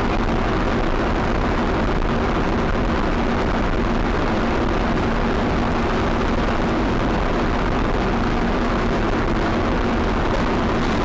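Steady vehicle driving noise: constant engine and road rumble with a low, even hum, unchanging throughout.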